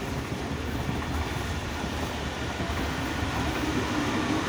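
Pakistan Express passenger train running along the line, heard from inside a carriage at an open window: a steady rumble of wheels on the rails.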